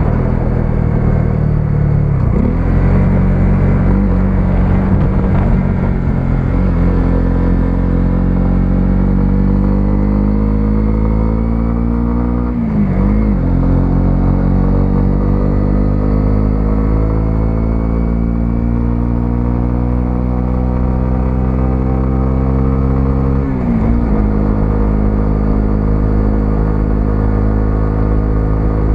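Single-cylinder 125cc motorcycle engine pulling under load while riding, its pitch climbing slowly and steadily as it gathers speed. It dips briefly three times, about two seconds in, near the middle and a few seconds before the end, as gears change.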